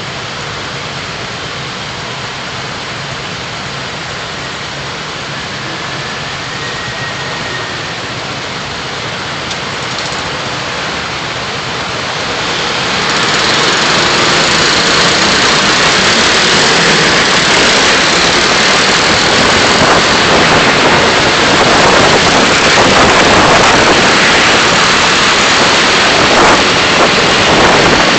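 Steady car driving noise, tyres on the road and engine, picked up by a dashcam inside the car. It grows clearly louder about thirteen seconds in and stays loud.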